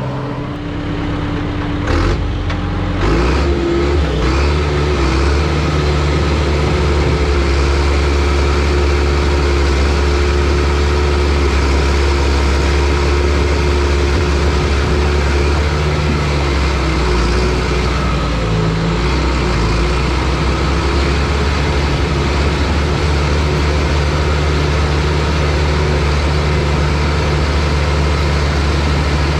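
Bulldozer's diesel engine revving up about two to three seconds in, then running steadily at working speed.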